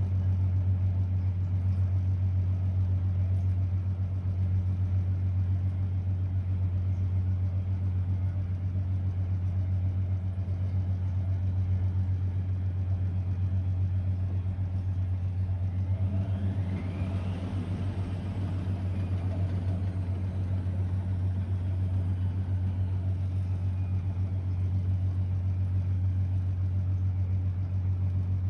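Blomberg WA391 washing machine running through a 90 °C boil-wash programme: a steady low hum, with a rising motor whine and added rumble about two-thirds of the way through that then fades away.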